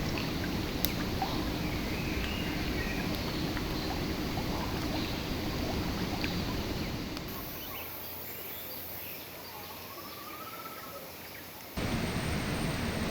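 Steady rush of a shallow river's flowing water, with a few faint clicks. It sinks quieter about halfway through, then jumps back to full level abruptly near the end.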